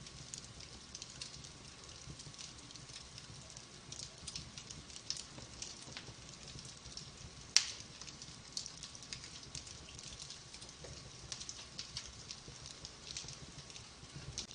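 Wood fire crackling in a fireplace: a steady scatter of small crackles, with one louder pop about halfway through.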